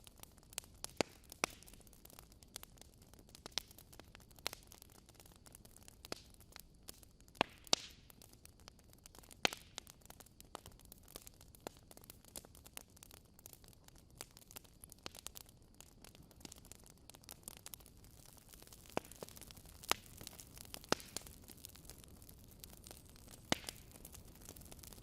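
Wood fire in a fireplace burning, with soft continuous hiss and irregular crackles and sharp pops from the burning logs.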